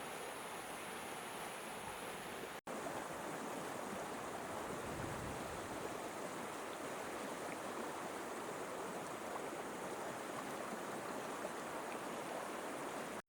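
Flowing river water, a steady rushing noise, broken by a brief gap about two and a half seconds in.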